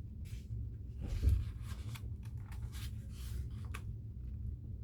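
Quiet room tone: a steady low hum with a few faint soft clicks and rustles, one slightly louder about a second in.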